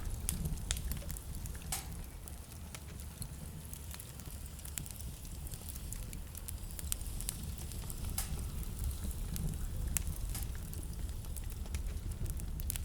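Wood fire in a fireplace crackling, with scattered sharp pops, a few louder than the rest, over a steady low rumble.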